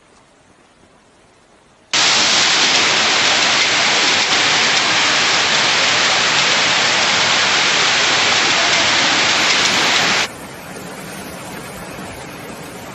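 Heavy rain pouring down as a loud, even hiss that starts suddenly about two seconds in and cuts off abruptly near the ten-second mark, giving way to a quieter steady wash of rain and water.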